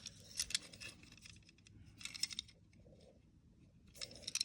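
Small diecast toy cars being handled: light clicks and taps in a few scattered clusters.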